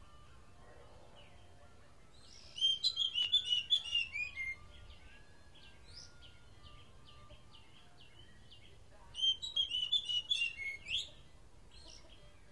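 Oriental magpie-robin singing: two loud phrases of quick whistled notes, each about two seconds long and stepping down in pitch toward its end, with faint short chirps in between.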